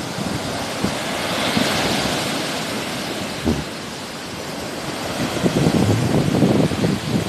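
Sea surf washing ashore: a hiss that swells and fades about two seconds in. Wind buffets the microphone in low, gusty rumbles near the start and again from about five seconds in.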